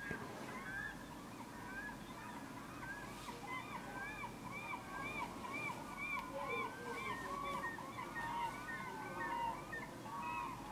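A bird calling over and over in quick runs of short notes that rise and fall, about three a second, thickest in the middle stretch.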